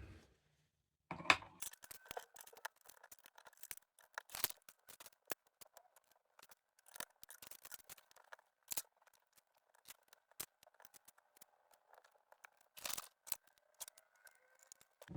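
Lego plastic pieces being handled and pressed together: irregular sharp plastic clicks over light rummaging, starting about a second in.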